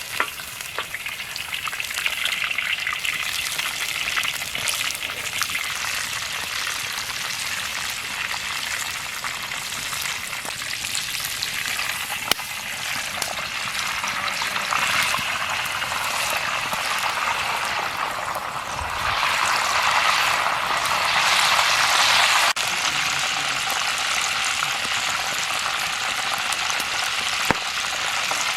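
Food frying in hot oil in a pan, a steady sizzle with fine crackles. It grows louder for a few seconds about two-thirds through, then drops back suddenly.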